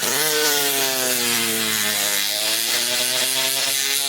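A jeweller's small electric rotary tool running. It starts suddenly, its whine sinks in pitch over the first two seconds as the bit takes load, then holds steady with a high hiss.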